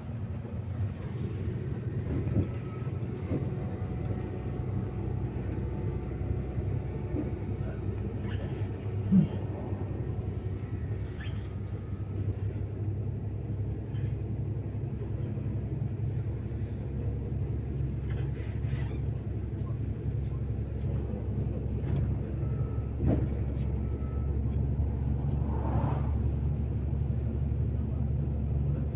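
MAZ-215 city bus heard from inside the passenger cabin while under way: a steady low engine and road rumble with scattered small rattles, and one short loud thump about nine seconds in.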